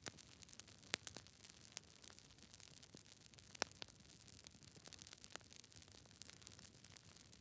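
Campfire crackling: irregular sharp snaps and pops over a soft, steady hiss, with a few louder pops among them.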